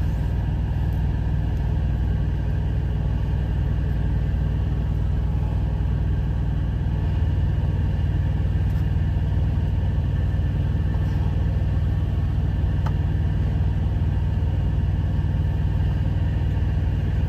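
Steady low rumble of an idling truck engine, with a couple of faint clicks.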